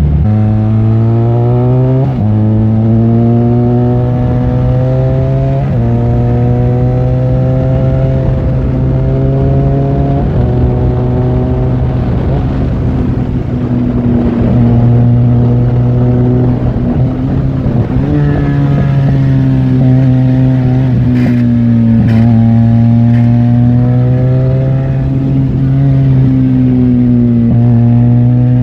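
Benelli 502C's 500 cc parallel-twin engine pulling hard through the gears, its pitch climbing and dropping at upshifts about 2, 6 and 10 seconds in, then cruising with the revs rising and falling gently.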